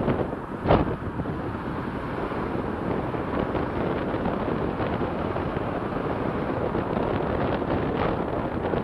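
Wind buffeting the microphone over a steady rush of outdoor noise, with a sharp bump under a second in.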